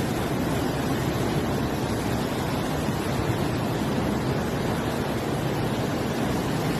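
Steady rushing of floodwater: an even noise with no breaks or distinct events.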